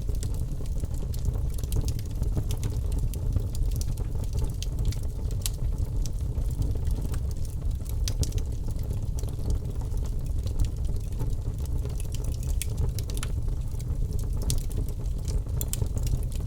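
Birch logs burning in a fireplace: a steady low rumble of flame with frequent, irregular sharp crackles and pops.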